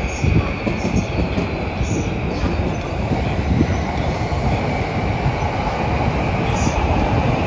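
Electric commuter train moving along the platform track: a steady, loud rumble of wheels on rail with a faint high squeal running through it.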